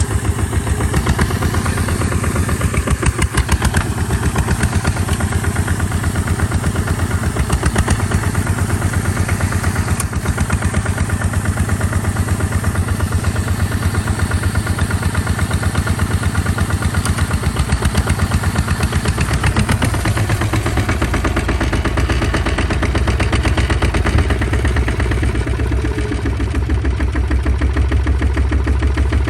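Tractor engine running steadily with a rapid even pulse. About two-thirds of the way through, its note drops lower and deeper.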